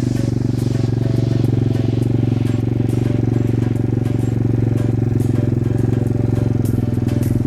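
Pit bike engine running steadily at a constant speed, neither revving up nor dropping off.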